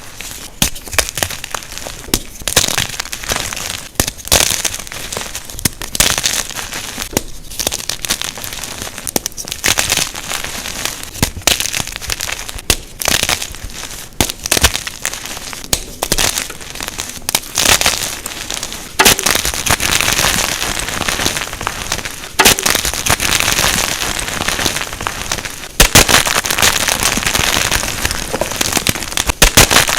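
Unpolished gym chalk blocks being crushed, crunching and crumbling in a dense run of sharp cracks. From about two-thirds of the way in, the crumbling becomes denser and steadier.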